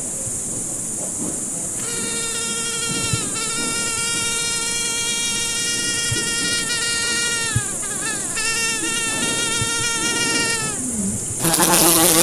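Mosquito whine: a steady, high buzzing tone with many overtones that starts about two seconds in, breaks off briefly, sags in pitch and drops out, then returns and fades, over a constant high hiss. A short, louder, harsher burst comes near the end.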